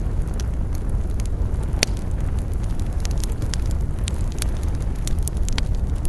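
Wood fire crackling: a steady low rumble of burning with many sharp pops and snaps at uneven intervals, the loudest pop about two seconds in.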